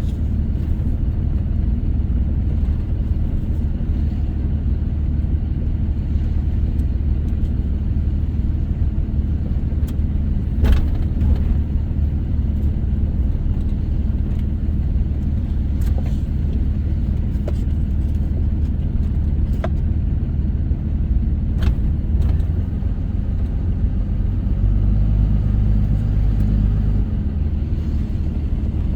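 A vehicle driving on a dirt road, with a steady low rumble of engine and tyres. Several short sharp knocks come through along the way, and the rumble grows louder for a few seconds near the end.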